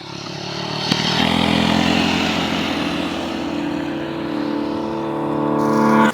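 150cc GY6 scooter engine, with a freshly rebuilt top end, running under throttle at a steady pitch and growing louder.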